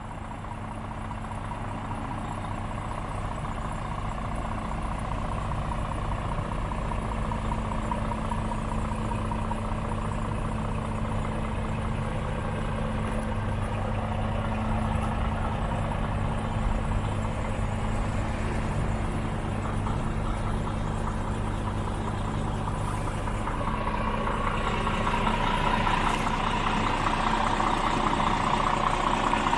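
Scania R490 tractor unit's 13-litre six-cylinder diesel idling steadily, growing gradually louder and brighter toward the end.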